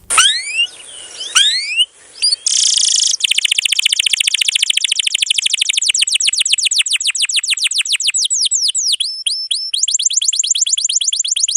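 Domestic canary singing: a few sweeping whistled notes, then a long rapid trill of repeated sweeping notes, about ten a second, that breaks briefly and resumes near the end.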